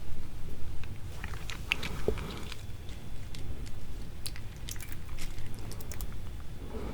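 Close-miked chewing of raw seafood, with many scattered sharp clicks and mouth smacks over a steady low rumble.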